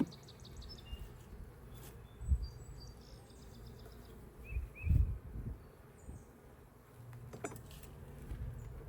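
Honeybees humming steadily around an open hive, with bird chirps and a couple of low thumps about two and five seconds in.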